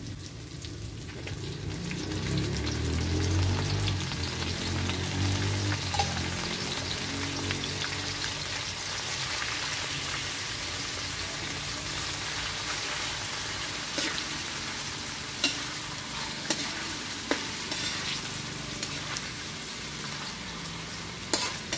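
Canned tuna sizzling in hot oil with garlic, onion and tomato in a metal wok, stirred with a metal spatula. The sizzle is steady, and several sharp clicks of the spatula against the wok come in the second half.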